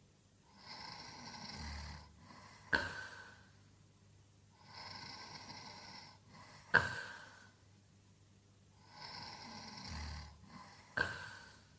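A sleeper snoring in slow, regular cycles about four seconds apart. Each cycle holds a drawn-out noisy breath and a short, sudden catch that is the loudest sound, heard three times.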